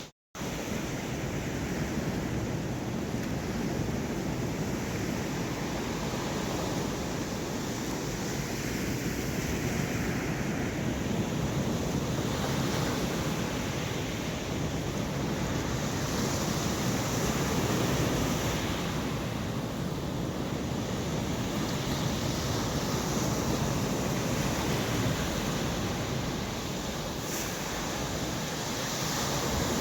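Sea waves surging and breaking on a stony shore in stormy weather, with wind buffeting the microphone. The sound cuts out for a moment just at the start.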